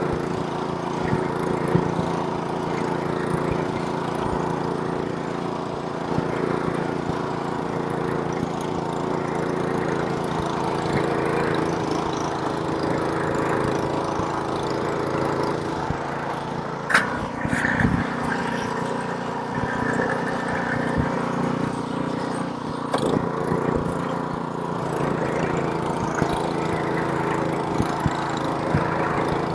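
Snowblower's small engine running steadily while throwing snow. A sharp knock a little past halfway, after which the engine note briefly shifts.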